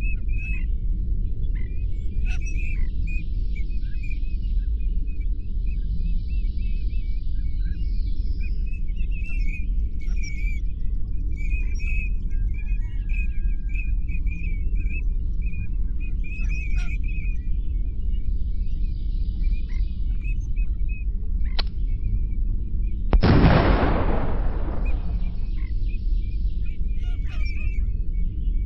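Outdoor ambience: a steady low rumble under many short, high chirping calls. A single click comes about 21 seconds in, then a loud rushing burst about 23 seconds in that fades over roughly two seconds.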